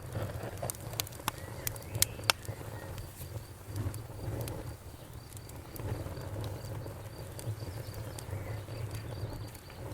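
Campfire burning: a low steady rush of flames with sharp crackling pops, several close together in the first couple of seconds and fewer after. Under it, an insect chirps in quick, evenly spaced high pulses.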